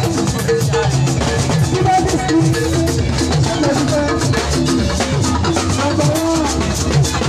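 Live gospel band music: a drum kit and shakers keep a fast, busy beat under a melody.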